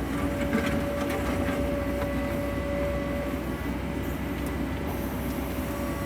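Sany excavator's diesel engine and hydraulics running steadily, with a constant whine over the engine and a few faint knocks in the first second and a half.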